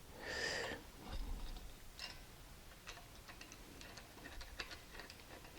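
Faint, irregular light metal clicking, a few clicks a second, as a 7/16 wrench works a bolt on an engine-stand caster.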